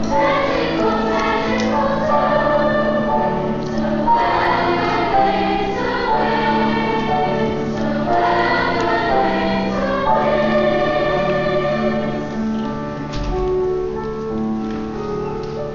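A middle-school choir singing, several voices holding and moving between sustained notes.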